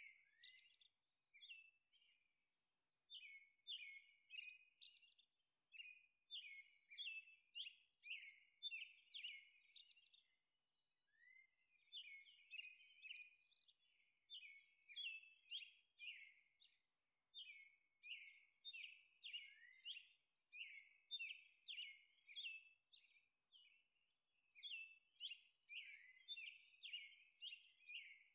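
Faint bird chirping: quick runs of short, high chirps, with a few brief pauses.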